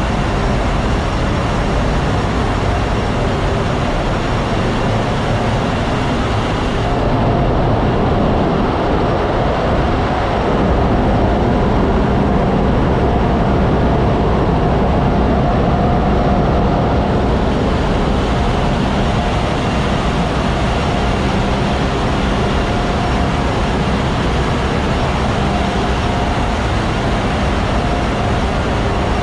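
Tanker ship's engine room machinery running: a loud, steady drone with a constant hum and a few steady higher tones. For about ten seconds in the middle the hiss in the highest range dulls, then comes back.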